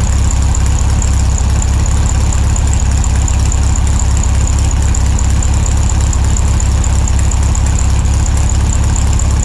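2001 Honda CR-V's 2.0-litre four-cylinder engine running on the road, a steady low drone with a thin high whine above it.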